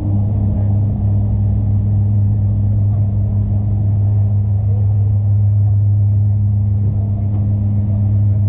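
Dash 8 Q400 turboprop's engines and propellers droning steadily, heard inside the cabin: a constant low hum with a fainter tone an octave above it, over a wash of rumbling noise.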